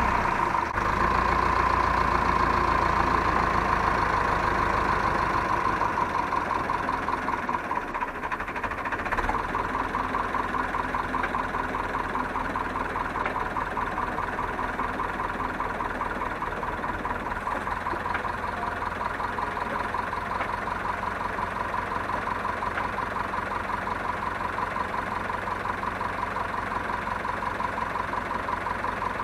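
Zetor 7745 tractor's diesel engine running steadily, with a steady whine over the engine sound.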